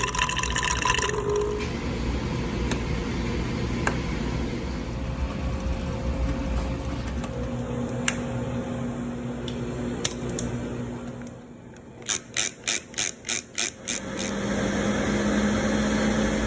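Steady hum of laboratory equipment running, with scattered light clicks. About two-thirds of the way through comes a rapid series of about seven short mechanical buzzes, three or four a second.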